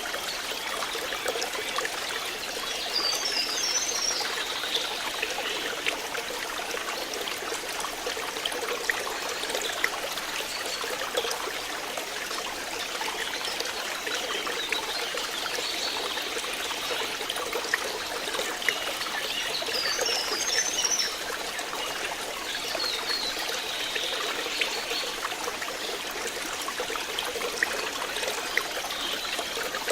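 Flowing water trickling steadily, with small splashy ticks throughout and brief high chirps about three seconds in and again near the twenty-second mark.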